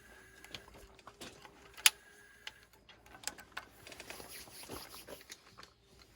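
Portable butane gas burner being lit. The piezo igniter gives one sharp click about two seconds in, followed by lighter clicks and rattles, with a faint hiss of gas in the middle; the burner does not catch.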